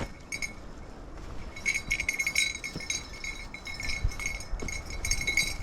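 A small bell on a hunting dog's collar jingling in irregular bursts as the dog runs and searches, with faint low thumps underneath.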